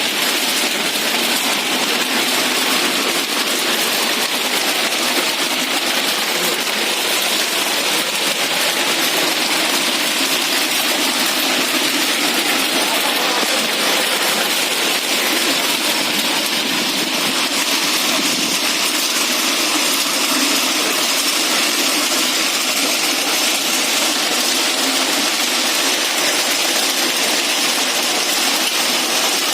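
Hailstorm: hailstones and rain pelting hard surfaces in a steady, dense rattle that keeps up at an even level.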